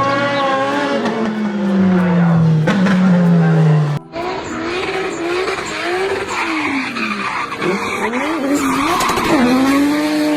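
Racing car sound effect. The engine note falls in pitch over the first four seconds. After an abrupt cut, the engine revs up and down with tyre squeal.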